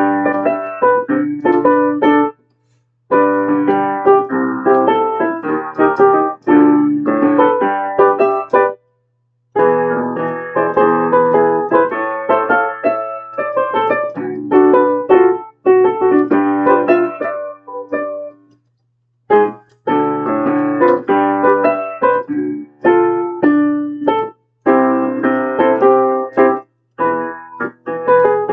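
Piano playing chord accompaniment in phrases of a few seconds, each cut off suddenly by a brief silence before the next begins.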